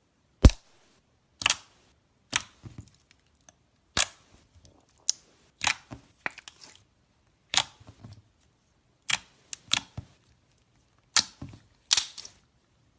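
Slime being squeezed and pressed, giving about a dozen sharp pops as trapped air bursts, roughly one a second.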